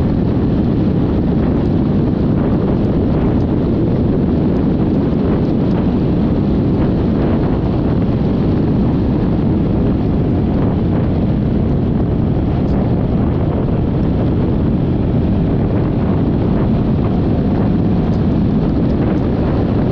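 Wind rushing over the camera microphone at riding speed, with the running of a Yamaha XMAX 300 scooter's single-cylinder engine and its road noise underneath, steady throughout.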